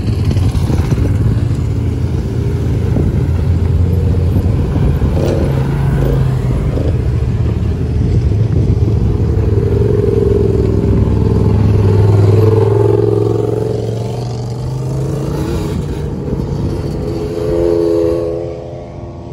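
Engines of lifted off-road Jeeps driving past at low speed on dirt. The engine drone swells as one passes close, loudest about twelve seconds in, then eases off, and another engine note rises near the end.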